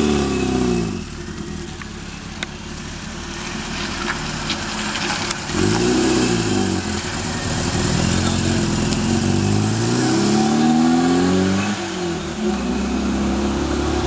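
A 1977 Triumph Spitfire 1500's four-cylinder engine driving off and passing by, its note rising and falling several times as it pulls away. The climb is longest and loudest from about two-thirds of the way through.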